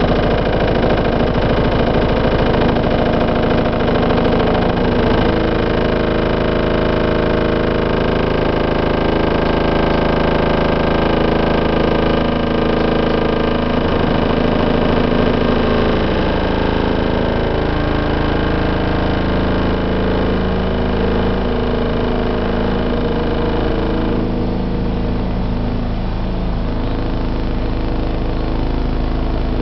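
Heavy construction vehicle engines on the roadworks, running as a constant hum and buzz whose pitch slowly rises and falls. The upper part of the sound drops away about three quarters of the way through.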